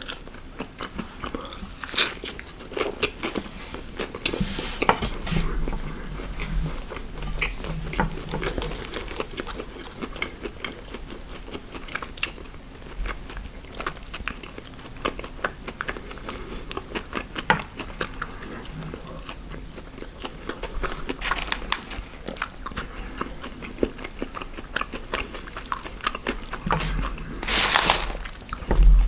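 A person eating fast food close to the microphone: steady chewing and crunching with many small wet clicks. A louder, noisier crunch or rustle comes near the end.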